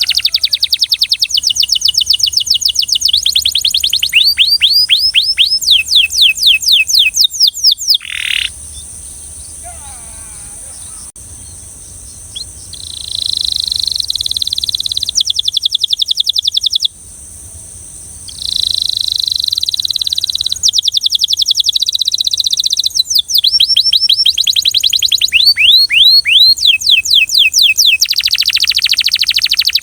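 A Belgian canary singing in fast repeated trills and rolls. The song breaks off into a quieter pause of a few seconds about a third of the way in, then carries on.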